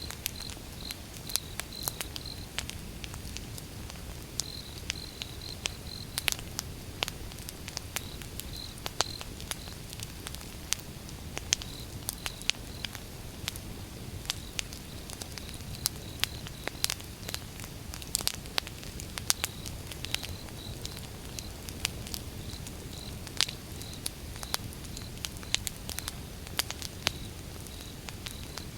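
Wood fire burning, with irregular sharp crackles and pops over a low steady rumble of flame. A faint high chirping repeats in short runs throughout.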